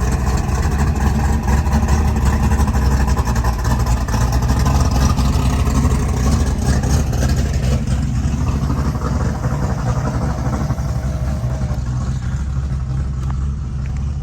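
An engine running loudly and steadily, with no clear revving.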